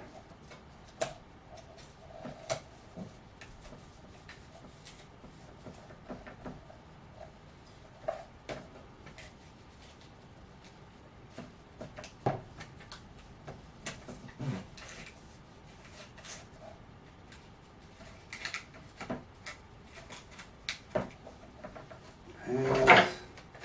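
Tape being handled and pressed onto a cardboard-and-fiberglass mold: scattered light taps, crinkles and rustles, with a louder rasp near the end.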